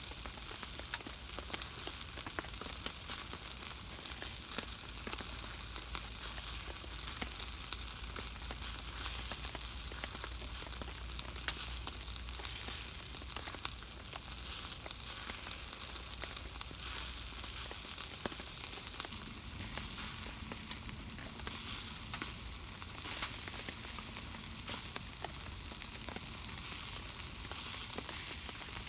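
Food sizzling as it cooks over heat, a steady hiss full of tiny pops.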